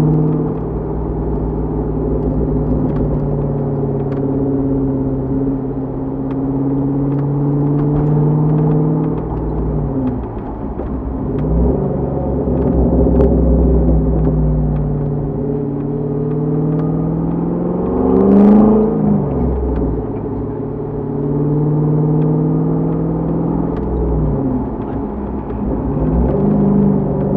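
Chevrolet Corvette C6's 6.0-litre LS2 V8 through a Borla exhaust, running under way with a deep steady rumble. Its note climbs slowly and drops back several times, with one brief louder, sharper burst about 18 seconds in.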